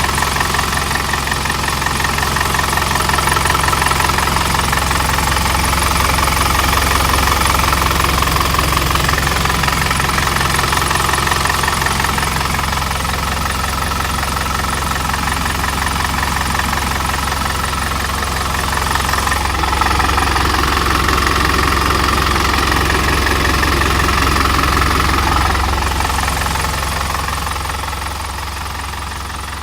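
Truck engine running at a steady idle with a knocking clatter, growing quieter over the last few seconds.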